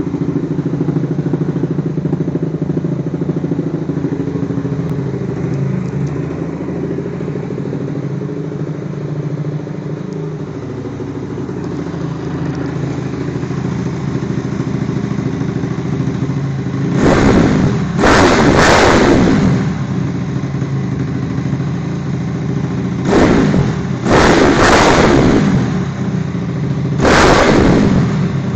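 2006 Honda CRF250R dirt bike's single-cylinder four-stroke engine idling through its dual exhaust, then revved in several short, sharp blips in the second half, each rising and dropping back to idle.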